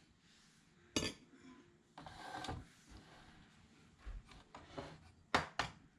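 Light handling sounds from work on an instrument cluster on a bench: a few short plastic-and-metal clicks and knocks with a soft scrape, a low thump about four seconds in, and two sharp clicks near the end.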